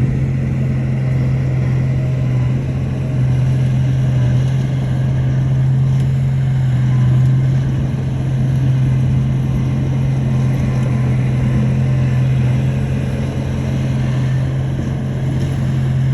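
Bulldozer's diesel engine running with a steady low drone, its loudness rising and falling slightly.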